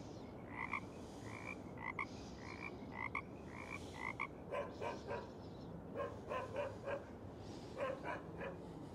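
Frogs croaking in a marsh: short, evenly spaced calls about every half second, then from about halfway through, bursts of quicker rattling calls.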